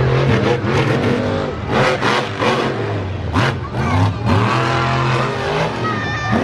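Monster truck engine revving hard, its pitch rising and falling several times, with sharp loud hits between the revs.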